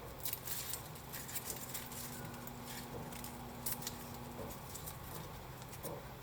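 A cat nibbling and chewing the leaves of a ponytail palm: faint, irregular crisp clicks and crunches.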